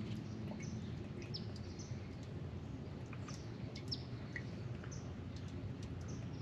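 Small birds chirping: short, high, falling chip notes, one or two a second, over a low steady background rumble.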